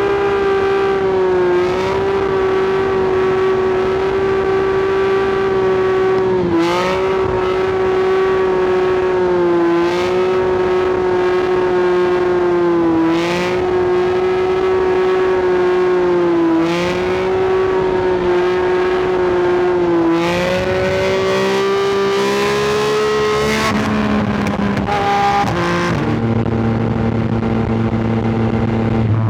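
Sport motorcycle engine and exhaust running at high revs under steady throttle, its pitch dipping briefly every few seconds and recovering, then climbing, dropping to a lower note near the end, and starting to rise again.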